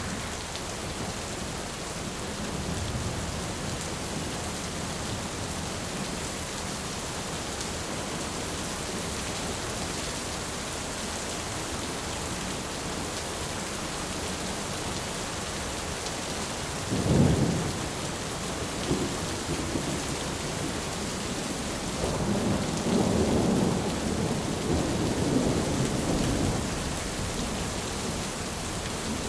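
Steady rainfall, with thunder: one sharp low clap just past the middle and a longer rolling rumble of thunder in the last third.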